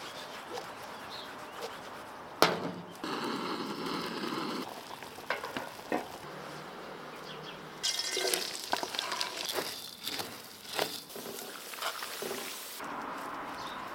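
Food sizzling as it fries, with scattered clicks and knocks of cooking utensils. The sound changes abruptly every few seconds, like short cooking shots cut together.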